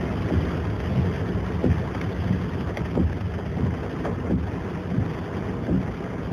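Rain falling on a car, heard from inside: a steady rushing noise with frequent irregular thuds.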